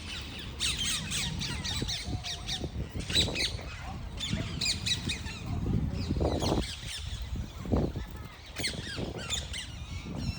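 Parrots chattering and squawking: many quick, high calls in clusters, with a few louder, lower squawks in between.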